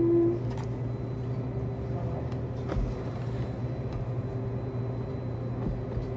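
Laundromat washing machines and dryers running with a steady low hum, with a few faint ticks.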